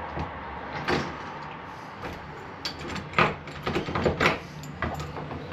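Clicks and clunks of deadbolt lock parts being fitted and turned by hand: a single knock about a second in, then a quick cluster of sharp clicks and knocks in the second half.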